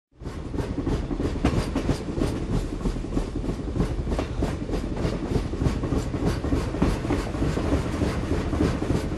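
A train rolling along, its wheels clattering in a steady clickety-clack over the rail joints.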